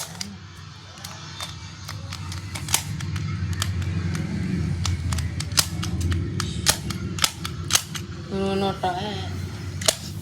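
Sharp plastic clicks, about a dozen at irregular intervals, from a new toy being pressed by hand, over a steady low hum.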